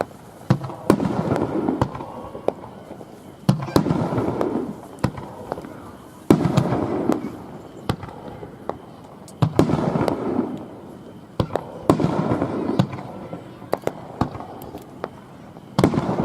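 Aerial firework shells bursting: about six heavy booms two to four seconds apart, each trailing off in a rumbling echo, with sharp crackling pops between them.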